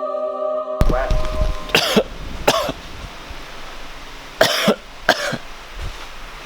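A person coughing several times in short bursts, some of them doubled, over the steady hum of a fan. Background music cuts off about a second in.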